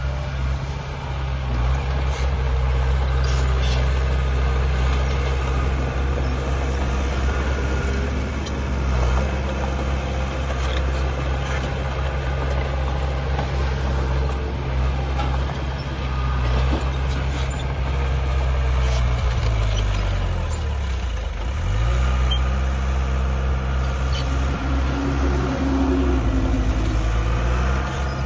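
Heavy diesel earthmoving machinery running steadily. Its engine pitch drops and comes back up about two-thirds of the way through, with occasional light clanks.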